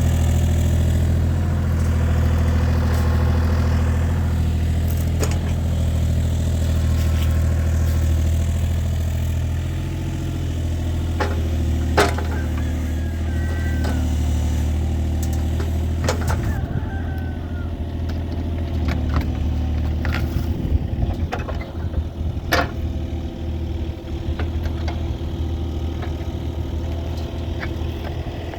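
An engine idling steadily, with a few sharp knocks, the loudest about halfway through.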